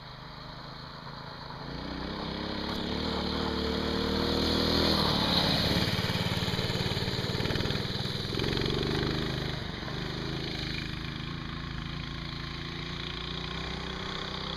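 Baja Doodle Bug minibike engines, small single-cylinder four-strokes, revving as the bikes ride: the pitch and loudness climb to a peak about five seconds in, then drop sharply. The engine note rises again briefly a few seconds later, then settles into a steadier, quieter run.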